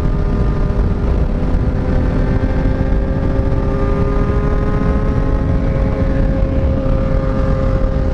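Kawasaki inline-four motorcycle engine running at a steady cruise, its note holding nearly constant pitch, under heavy wind rush on the microphone.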